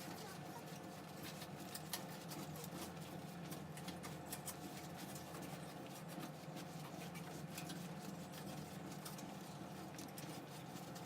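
Irregular, scratchy rustling and scrubbing of a fabric T-top storage bag being cleaned by hand, over a steady low hum.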